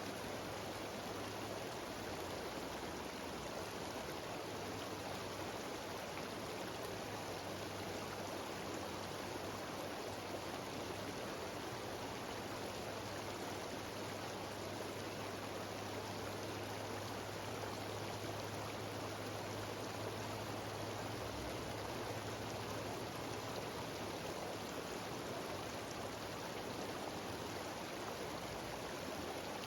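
Mountain stream cascading over rocks, a steady rushing of water.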